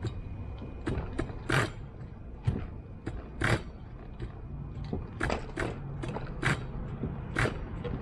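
Brand-new LRP .30 nitro engine being cranked for its first start: a series of irregular ratcheting pulls and clatters, about one every half second to second.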